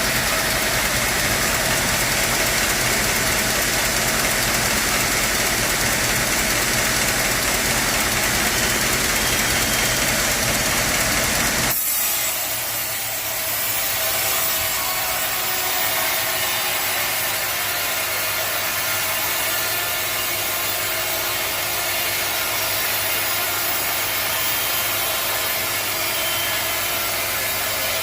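Sawmill machinery running steadily while sawing timber. About twelve seconds in the sound changes abruptly to a steadier low hum with a high hiss.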